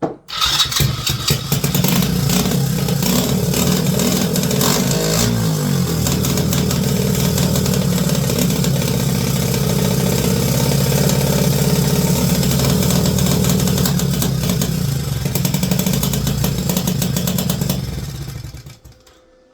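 Pit bike's small engine catching on choke and running, its pitch shifting about five seconds in, then dying out near the end; it is not yet running right.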